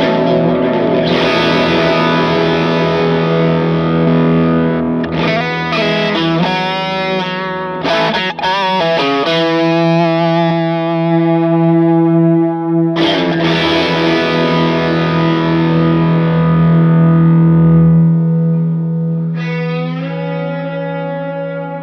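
Overdriven electric guitar (Fender Stratocaster through a Vox AC30) playing chords through delay and reverb. Chords are struck about five times and each is left to ring out and fade slowly.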